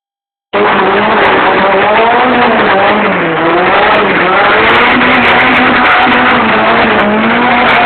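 Car engine revving hard, its pitch rising and falling repeatedly as the car drifts. It starts suddenly about half a second in.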